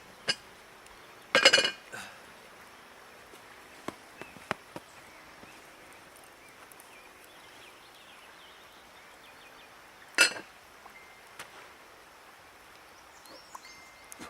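A few sharp, ringing clinks of cooking gear, the loudest about a second and a half in and again near ten seconds, with smaller taps between, over a faint steady outdoor background.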